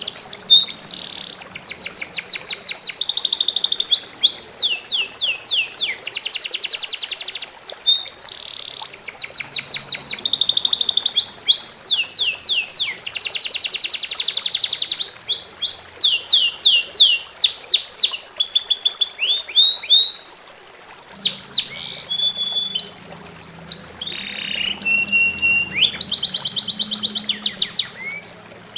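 A songbird singing loudly and almost without pause, in rapid trills, fast runs of down-sweeping whistled notes and buzzy rattles, with a brief break about two-thirds of the way through. A faint trickle of running water sits beneath it.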